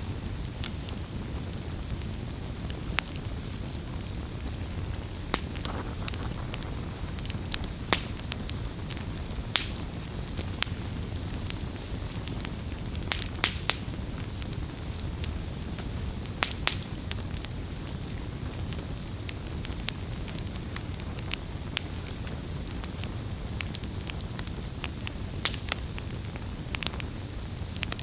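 Campfire crackling: irregular sharp pops and snaps over a steady low rumble and hiss.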